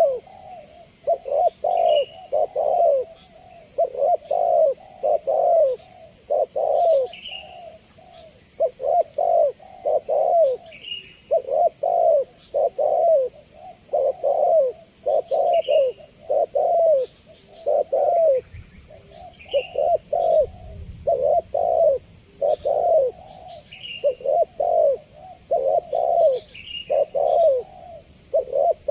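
Spotted dove (tekukur) cooing over and over in quick runs of low coo notes. A short, higher chirp from another bird comes in about every four seconds.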